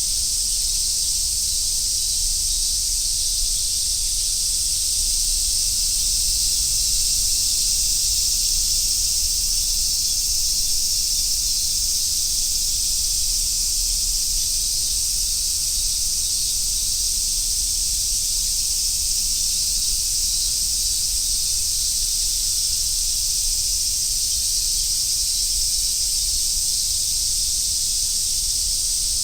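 Chorus of Japanese summer cicadas, such as large brown cicadas, singing together as a dense, steady high-pitched hiss that holds an even level throughout.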